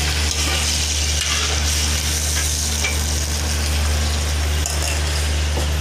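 Palabok sauce base sizzling and bubbling in a large aluminium wok while a metal ladle stirs it, an even hiss with a few faint scrapes. A steady low hum runs underneath.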